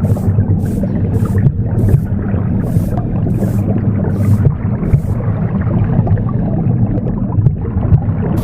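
Recorded womb sound, a steady low whooshing rumble, mixed with a broom sweeping in short swishing strokes about one to two a second; the strokes stop about five seconds in while the womb rumble carries on.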